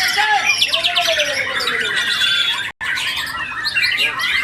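Several white-rumped shamas (murai batu) singing at once, a dense tangle of overlapping whistles and trills with some lower gliding whistles. The sound drops out for an instant a little past halfway.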